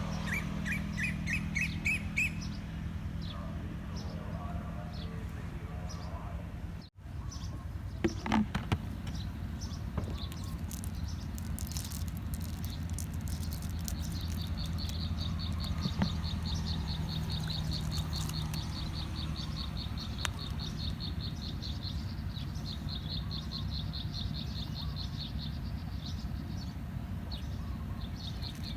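Outdoor ambience: birds chirping, with a rising run of chirps at the start, and from about halfway a fast, steady insect trill. A constant low hum underlies it all, with a few sharp clicks a third of the way in.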